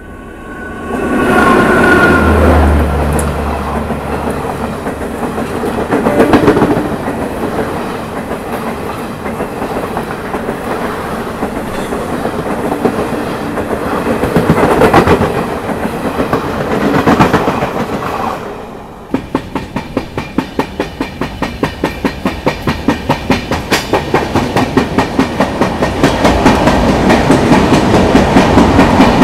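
Electric locomotive of an oncoming express passing close alongside a stationary train, its low hum loudest a few seconds in, then its coaches rolling past with wheel and rail noise. About 19 seconds in it changes abruptly to a moving train running through a tunnel, its wheels clicking over rail joints about three times a second.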